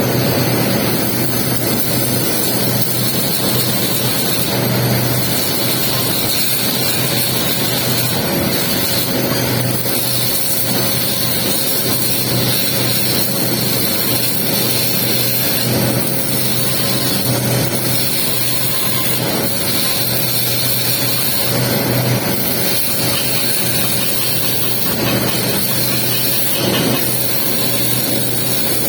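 Electric welding arc crackling and hissing steadily while laying the capping pass on a pipe joint, with a steady low hum underneath.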